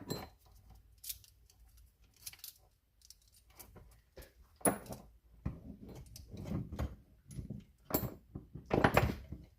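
Chainsaw guide bar and chain being fitted back onto the G444 saw: scattered metal clicks, clinks and knocks from hand work. The loudest knocks come near the end.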